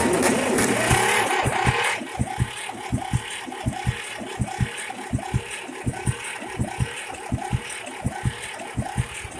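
Shenniu 4/25 compact tractor's diesel engine being cranked cold by its starter, catching after about two seconds, then running at a slow, lumpy idle with evenly spaced thumps, about four to five a second.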